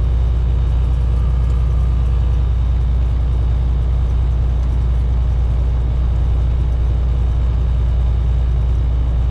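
Semi truck's diesel engine and road noise droning steadily inside the cab while cruising at highway speed, a deep low hum with no change in pitch.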